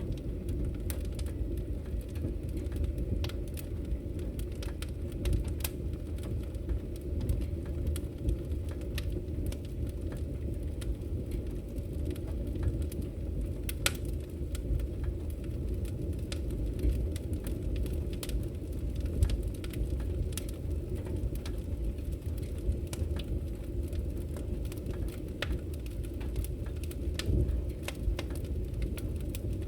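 Wood logs burning in a fireplace: a steady low rumble of flames with scattered crackles and pops, one sharper pop about fourteen seconds in.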